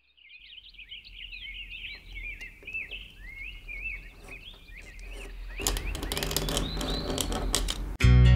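Birds chirping and twittering in quick, overlapping calls, joined by a run of sharp clicks about two-thirds of the way through. Guitar music starts suddenly near the end.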